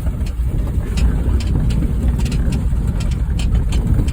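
Honda Fit being driven over a rough dirt trail: a steady low rumble from the engine and tyres, with frequent short rattles and knocks.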